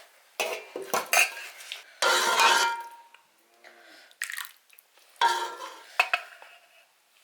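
Metal dishes and utensils clanking together in a string of short knocks. About two seconds in there is one longer, louder clatter that rings briefly.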